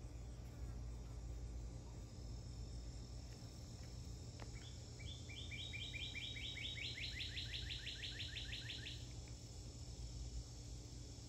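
A bird sings one song, a series of clear notes that speeds up into a fast trill, lasting about four seconds from roughly five seconds in, over steady low outdoor background noise.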